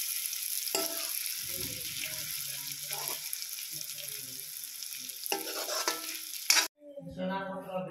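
Chicken liver and cauliflower frying in a pan with a steady sizzle, stirred with a spatula that scrapes the pan a few times. The sizzle cuts off suddenly near the end.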